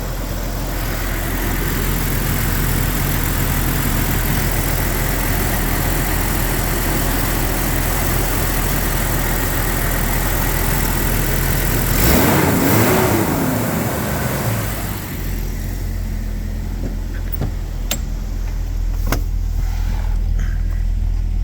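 1998 Jeep Cherokee XJ's 4.0-litre straight-six idling steadily while still warming up after a cold start. About twelve seconds in, a brief louder swell rises and falls in pitch, and a few sharp clicks come near the end.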